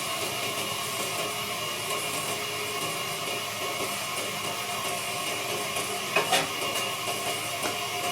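Wood lathe running steadily with a mechanical hum, with two sharp knocks about six seconds in.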